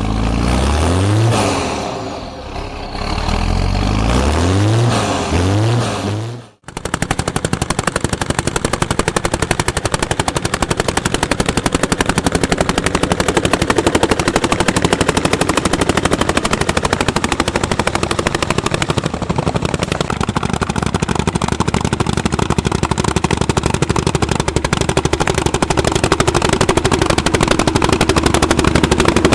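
Hot-bulb tractor's single-cylinder two-stroke engine running with its rapid, even exhaust beats, a steady popping like a machine gun. The opening seconds instead hold rising and falling sweeps in pitch, broken off by a short dropout before the steady beating starts.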